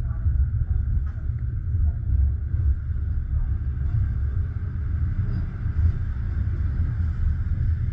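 Passenger train coach rumbling steadily as the train runs along the track, heard from inside the carriage: a deep, even rumble with a fainter steady hiss above it.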